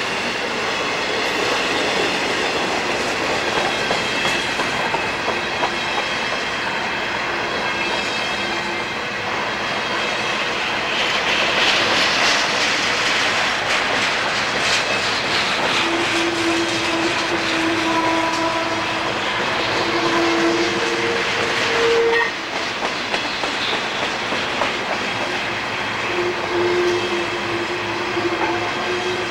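Freight train rolling past with a steady rumble and clickety-clack of wheels over the rails. In the second half, a diesel locomotive's horn sounds in drawn-out notes, one of them cutting off sharply.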